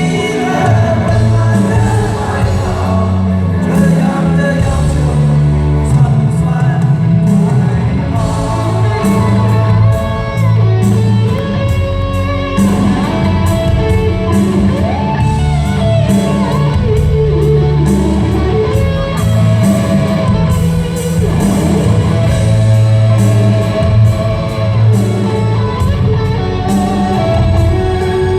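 Live rock band music with guitars, a steady drum beat and some singing, in a large hall.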